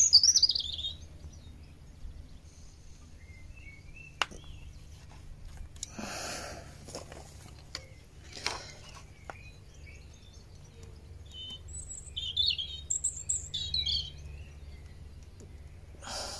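Small birds chirping in short high-pitched bursts, once at the start and again in a cluster about twelve to fourteen seconds in, over a low steady hum, with a few sharp clicks and two short hissing noises in between.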